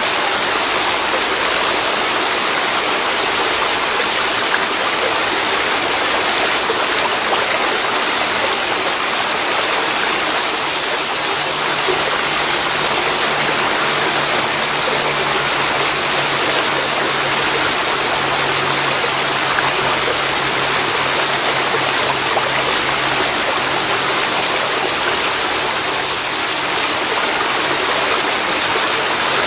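Waterfall pouring into a river: a steady, even rush of water. A faint low hum sits under it for a stretch in the middle.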